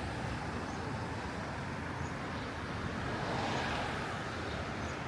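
Steady background noise, a low rumble under a hiss, swelling slightly about three seconds in.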